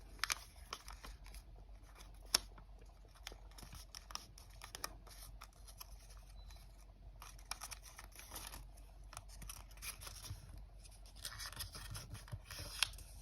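Sheet of origami paper handled by hand, unfolded and refolded along its creases: faint scattered crackles and taps with short rustles, a longer rustle near the end.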